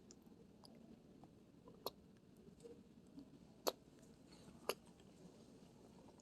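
Near-quiet background with a few short, sharp clicks: one about two seconds in, a louder one about three and a half seconds in, and another about a second later.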